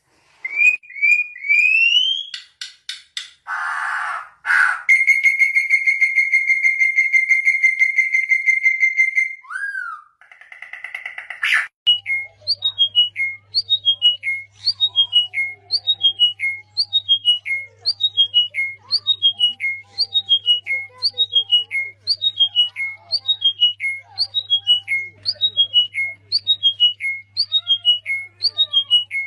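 Bird calls and whistles: a few rising whistles, a brief harsh burst and a long held whistle, then a short falling chirping phrase repeated evenly about once a second, with a low steady hum underneath.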